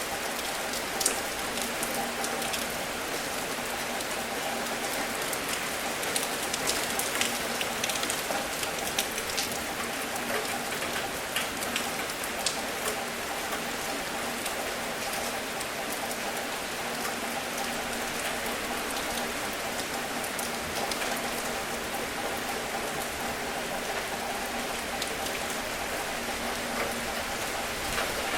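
Steady rain falling, a constant hiss dotted with scattered sharper drop ticks, over a faint steady hum.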